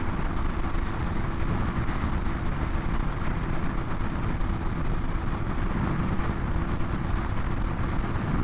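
2020 BMW S1000RR's inline-four engine holding a steady drone at cruising speed, under steady wind rush on a helmet chin-mounted microphone.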